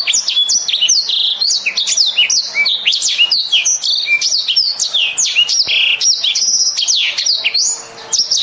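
Black-throated canary (blackthroat) singing a fast, unbroken song of chirps, rising and falling whistled notes and short trills, with a brief lull near the end.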